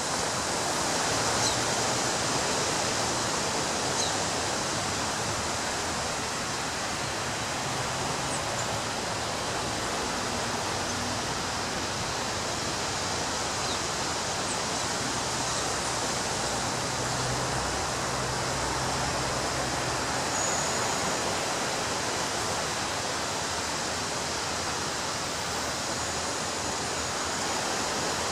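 Ocean surf washing onto a beach as a continuous, even rush of noise, with no single wave standing out. A few faint, short high ticks sound in the first few seconds.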